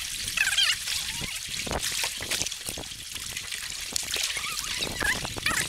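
River water trickling and splashing close by, with uneven small drips and splashes, as around a canoe being paddled.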